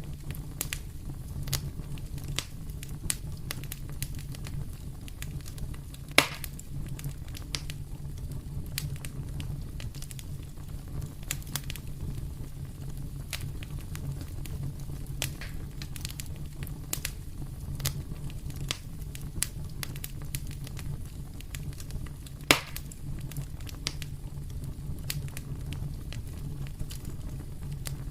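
Wood fire crackling in a fireplace: irregular snaps and pops over a steady low rumble, with two louder pops, about six seconds in and a little over twenty seconds in.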